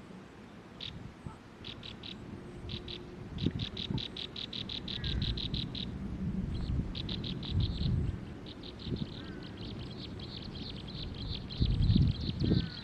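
A bird calling in rapid, evenly spaced series of short high notes, about eight a second. The series breaks off briefly near the middle and starts again. Low rumbles come and go underneath.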